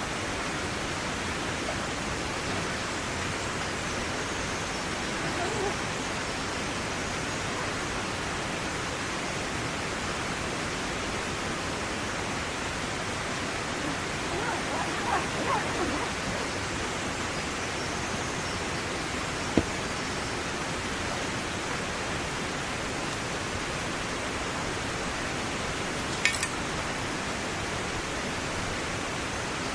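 Steady rushing noise of water, with a short fainter sound about halfway through and two sharp clicks later on.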